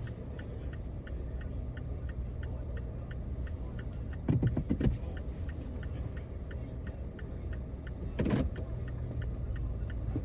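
Car driving in the city: a steady low rumble of engine and tyres with a regular fast ticking, about three clicks a second. A few louder thumps come about four to five seconds in and again about eight seconds in.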